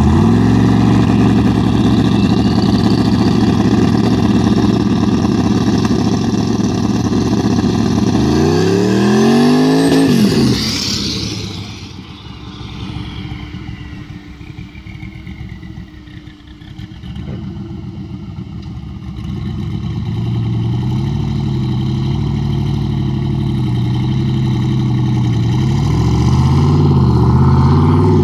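Turbocharged LS V8 in a Fox-body Mustang held at high revs for about eight seconds, then climbing steeply in pitch as the car takes off and fading as it drives away. In the last few seconds it grows loud again as the car comes back, its revs rising and falling.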